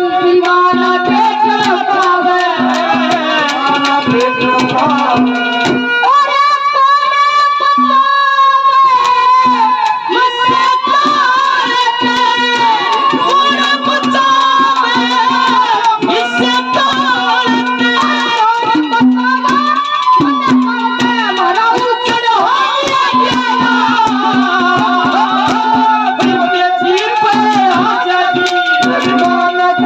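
Haryanvi ragni folk music: harmonium playing the melody over a steady drone note, with hand-drum rhythm and high-pitched singing.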